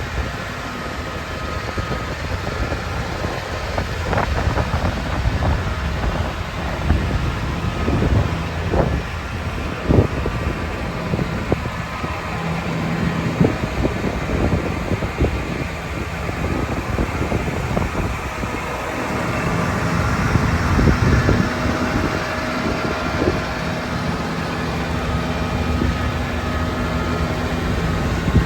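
John Deere 9R 440 tractor's 13.6-litre six-cylinder diesel engine running steadily, with scattered short clicks and knocks over it.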